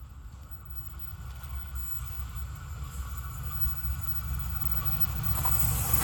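Approaching passenger train: a low rumble that grows steadily louder, with a rising hiss joining near the end.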